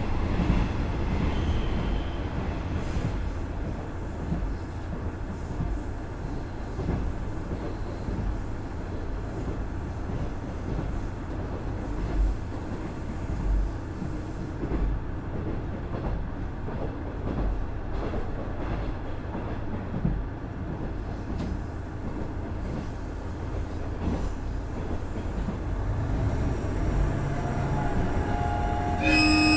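Running noise of a KiHa 110 series 200-subseries diesel railcar with a Cummins DMF14HZA engine: a steady low rumble of the wheels on the rails and the diesel underfloor, with a couple of thumps midway. The sound builds near the end, and the horn starts to sound right at the very end.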